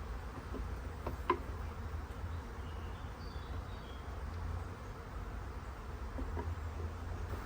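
Honeybees buzzing steadily around an open hive as frames are handled, with one sharp click about a second in.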